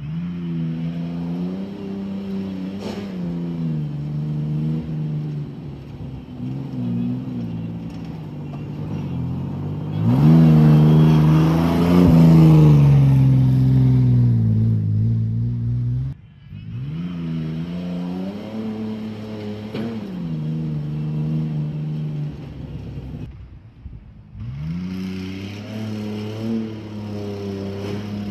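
Beater pickup truck's engine revving hard under acceleration through a leaking, half-removed exhaust, running rough with a misfire. It is loudest about ten seconds in, and drops out sharply twice, near sixteen and twenty-four seconds, before the revs climb again.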